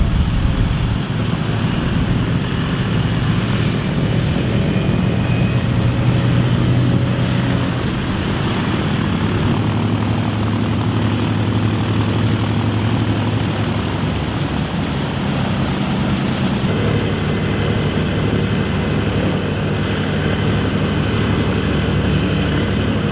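Propeller-driven vintage warbird's piston engines running steadily and loudly, their pitch shifting about 8 seconds in and again about 17 seconds in.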